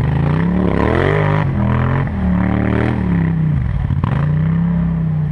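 4x4 ATV engine running under a varying throttle, its pitch rising and falling several times: it climbs in the first second, drops and climbs again around two seconds in, dips near four seconds and rises again, then falls off at the end.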